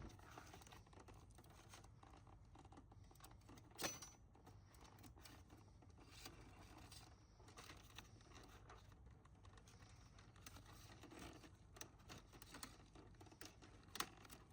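Faint scratching and rubbing of steel baling wire being wrapped around itself by hand, with two short sharp clicks, one about four seconds in and one near the end.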